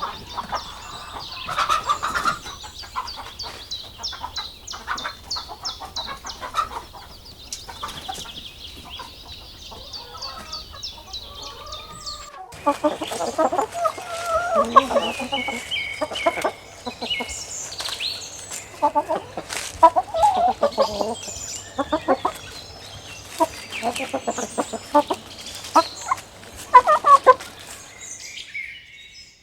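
Chickens clucking while foraging, with a run of quick, high chirps through the first dozen seconds. After an abrupt cut about twelve seconds in, the clucking is louder and busier.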